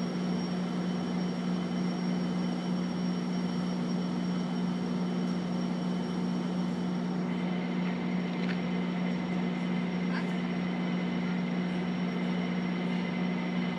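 A train running with a steady, unchanging low drone. A second, higher steady whine joins about seven seconds in, and there are a couple of faint clicks.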